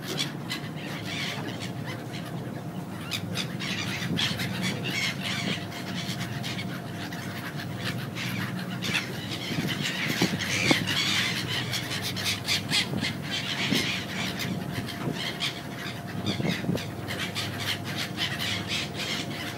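Birds calling: a dense, continuous chatter of short, rapid chirps.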